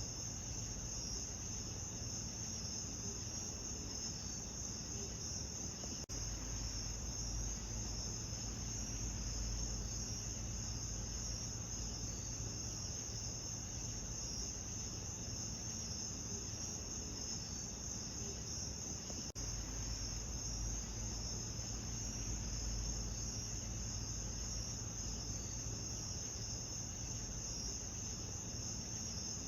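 Steady chorus of crickets chirping, a dense high-pitched trill over a soft low rumble. There is a faint click about six seconds in and again near twenty seconds.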